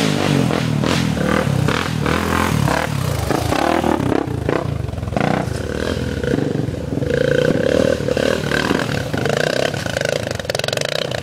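Dirt bike engine revving as it is ridden, its pitch rising and falling with the throttle, then holding steadier in the second half.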